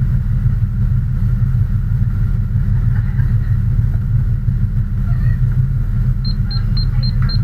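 Steady low rumble of an idling motor vehicle engine. About six seconds in, a rapid high electronic beep starts, repeating about four times a second.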